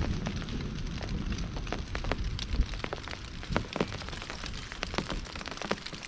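Rain falling, with irregular taps of individual drops striking a surface over a steady hiss.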